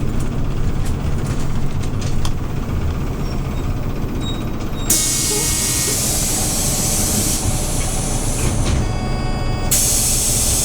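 Hyundai New Super Aero City CNG city bus running with a steady low engine drone. About five seconds in, a loud hiss of compressed air from the bus's air system starts and lasts a couple of seconds. A brief whistling tone follows, then a second hiss near the end.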